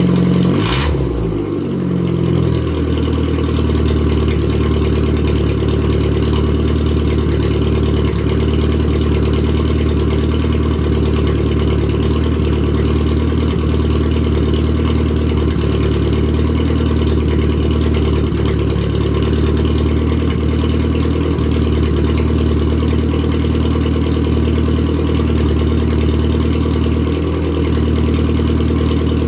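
Straight-piped Datsun 1000's 988 cc A-series four-cylinder engine, still warming up after a cold start. In the first couple of seconds the revs fall quickly back to idle, and after that it idles steadily, loud and raw through the open pipe.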